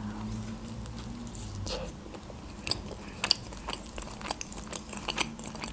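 A person bites into a slice of homemade pizza and chews it, with irregular small crunches and mouth clicks that grow busier about two seconds in.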